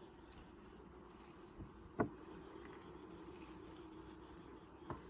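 Honeybees from an opened hive buzzing in a steady low hum. A sharp knock about two seconds in, and a smaller one near the end.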